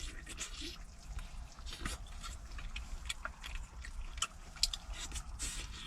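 Close-up eating sounds: chewing and lip-smacking on chicken wing drumettes, heard as irregular small wet clicks and smacks over a faint low hum.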